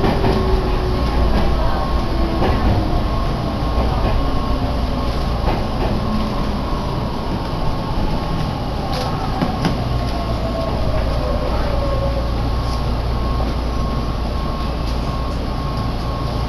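Commuter train on the Meitetsu Takehana Line heard from inside the car: steady running rumble with a motor whine that falls slowly in pitch as the train slows, and a few wheel clacks over rail joints about two-thirds of the way through.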